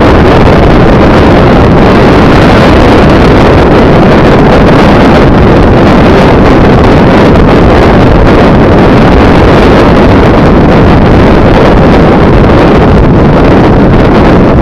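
Steady, very loud rushing noise of a moving vehicle, with wind on the microphone.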